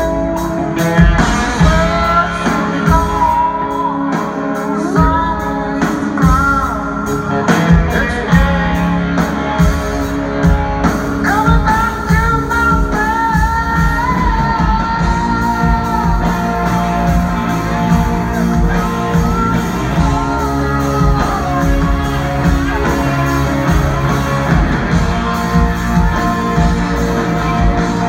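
Rock band playing live, with a singer's voice carried over guitars and drums.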